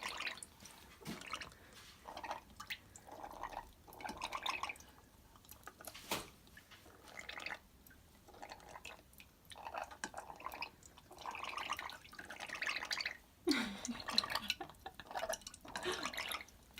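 Parrots drinking coconut water, lapping at the liquid in short, irregular bouts of small wet clicks and drips.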